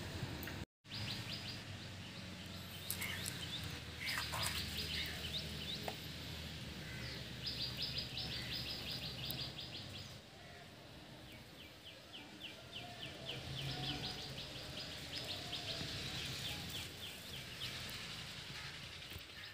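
A bird chirping in rapid trills, several runs of quick high chirps at about ten a second, over a low steady background hum.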